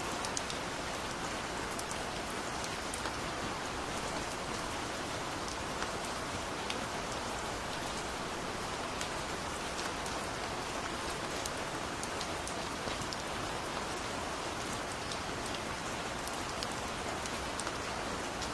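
Steady gentle rain falling, an even hiss with many small drop ticks scattered through it.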